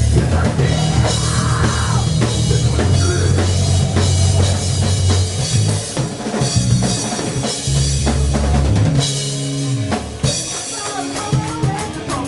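Heavy rock played by a band: a hard-hit drum kit with bass drum and snare over sustained low bass notes and guitar, with a brief drop in the bass about ten seconds in.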